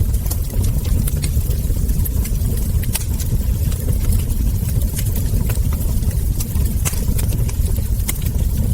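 Wood fire crackling: irregular sharp crackles and ember pops over a steady low rumble.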